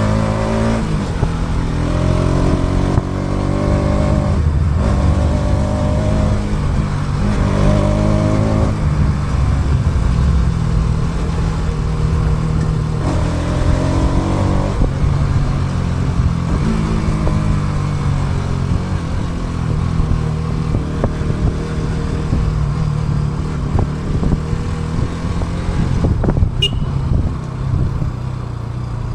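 Motorcycle engine while riding, picking up speed with rising revs that drop back several times in the first half, then running steadier. There is wind rush on the action camera's built-in microphone throughout.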